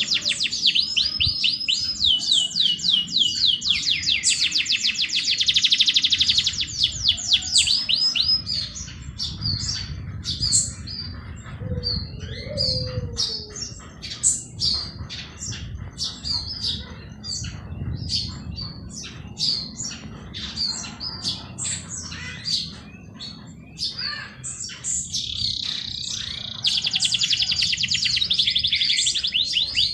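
Songbirds singing: fast, high trills of rapidly repeated notes, with scattered short chirps and tweets from other birds in between, and the trills coming back near the end.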